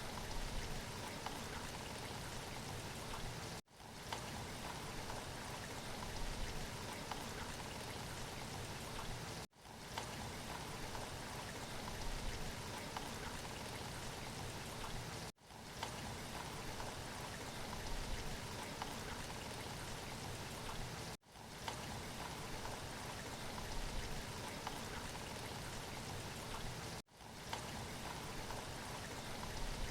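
Steady rain falling: an even hiss of drops, broken by a short gap about every six seconds.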